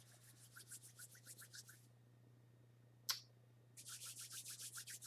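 Faint, quick rhythmic rubbing, about five strokes a second, under a steady low hum. The rubbing stops about two seconds in and starts again near the end, with one short sound in the gap.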